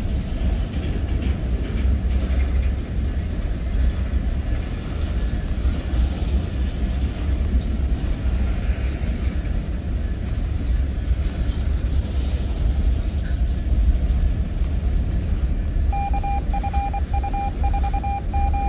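Norfolk Southern mixed freight train rolling past: a steady, heavy rumble of hopper and tank car wheels on the rails. Near the end a rapid electronic beeping joins in.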